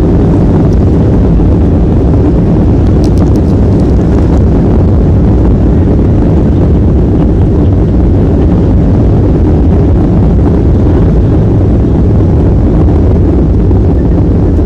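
Airliner landing: a loud, steady low roar of engines and rushing air, with no change through the stretch.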